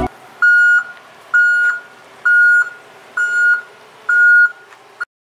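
Electronic beeping: five short beeps of one steady high pitch, about one a second, like a reversing alarm, over a faint hiss, cut off suddenly near the end.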